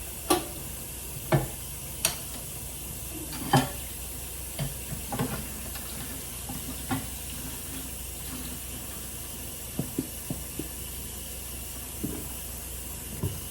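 Tap running into a kitchen sink as it fills, with a steady hiss of water, and a dozen or so sharp clinks and knocks of plates and dishes being handled.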